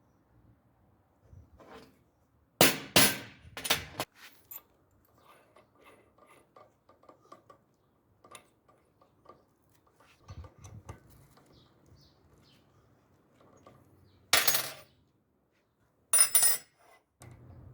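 Hard objects clattering and clinking: a quick run of loud clatters about three seconds in, a single loud one near fourteen seconds, another just before the end, and lighter clicks and taps in between.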